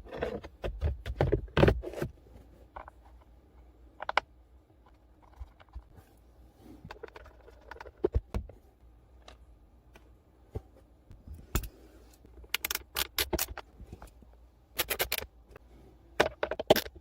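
Irregular clicks, knocks and scrapes of tools and plastic and metal parts being handled during the blower motor replacement, with quick clusters of sharp clicks around the middle and again near the end.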